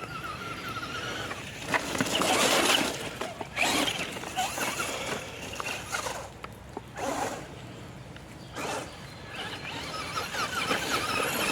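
Traxxas Slash 2WD radio-controlled truck's motor and drivetrain whining up and down as it is driven, with its tyres spinning through wet grass and a few sharp knocks as it lands off jumps.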